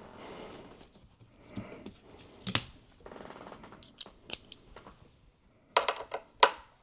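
Small hand-tool sounds: a Torx screwdriver scraping and clicking while T8 screws are backed out. Several sharp clicks come in the middle, and a few ringing metallic clinks come near the end.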